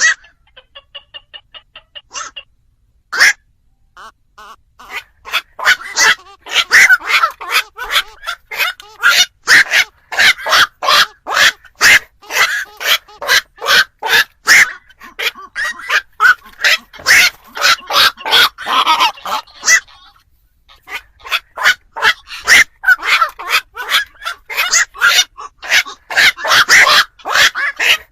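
Black-crowned night herons calling: a fast run of short, harsh, barking croaks, several a second. The calls start soft and sparse, then come loud and dense, with a short break about twenty seconds in. This is the lure call played to draw night herons to a trap.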